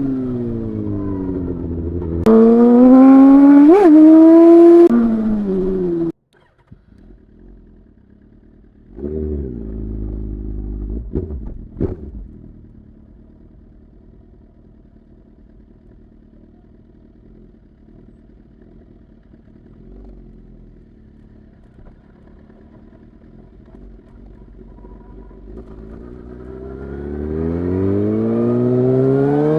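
Suzuki GSX-R 1000 inline-four engine revving with sharp throttle blips, then its sound cuts off suddenly about six seconds in. A low rumble comes back a few seconds later and settles into a quiet, steady idle, and near the end the revs climb smoothly as the bike pulls away.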